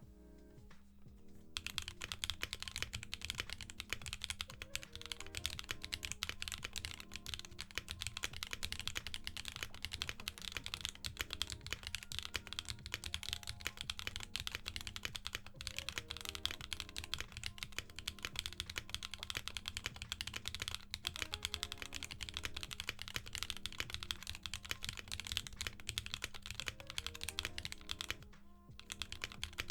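Typing on a CanonKeys Bakeneko65 mechanical keyboard fitted with Jerzzi Lotus V2 linear switches, which have unlubed LY-plastic stems. It is a fast, continuous run of key clacks that starts about a second and a half in and breaks briefly near the end. Soft background music plays underneath.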